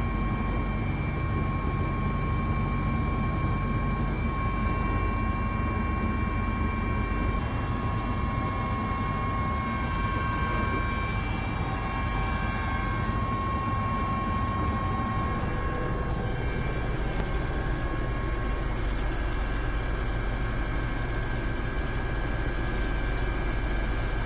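Steady engine drone with a constant high whine over a heavy low rumble, like an aircraft or helicopter engine running continuously.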